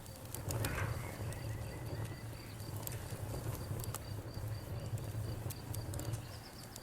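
Crickets chirping in a steady, evenly pulsed rhythm over a crackling wood fire, with scattered sharp pops and the low, fluttering rumble of the flames.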